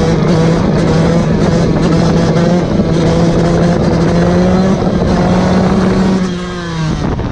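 Fantic XE 125 two-stroke single-cylinder engine held at high revs, its pitch edging up slightly as the throttle is pushed. Near the end the revs fall away quickly as the throttle closes.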